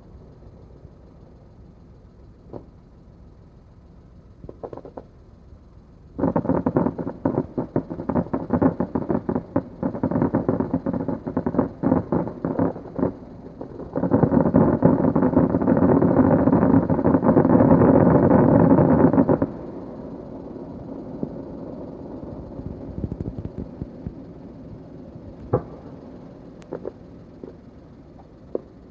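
Fireworks going off: a rapid string of bangs starting about six seconds in, building to a dense, continuous barrage for about five seconds. It then drops away to a few scattered pops.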